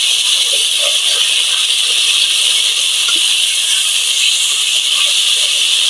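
Chopped onions frying in hot oil in an aluminium wok, a steady loud sizzle, with faint scrapes of a steel spoon stirring.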